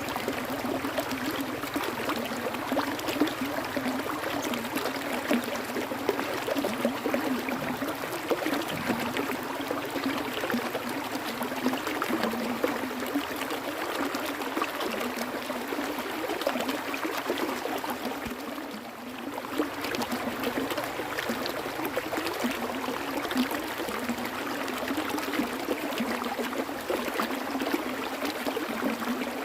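Flowing water of a stream, a steady rush with a brief, slight dip about two-thirds of the way through.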